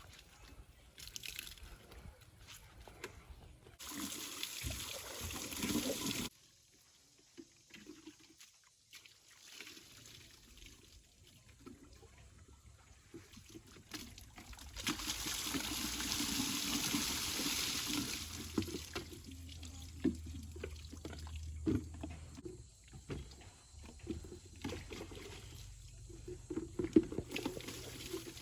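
Water pouring and splashing in two spells of a few seconds each, the first cutting off sharply, with faint trickles and small knocks between them.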